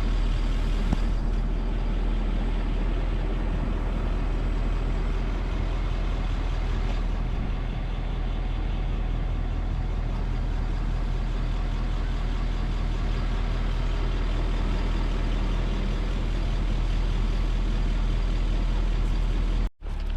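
Steady rumble of a motor vehicle's engine running, heard from close by. The sound cuts out abruptly for a moment near the end.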